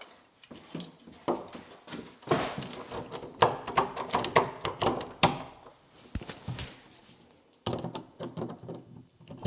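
Metal door-knob and latch parts clicking, clinking and knocking against the door as they are handled and fitted in, in a rapid run of small clicks in the middle and a few more near the end.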